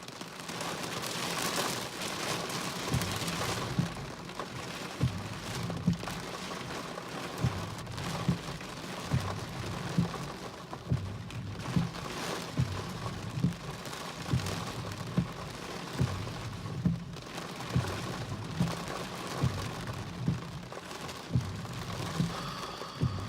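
Rain and gusting wind in a cold-front storm, a rushing that swells and fades. A low, dull knock repeats steadily about once a second throughout.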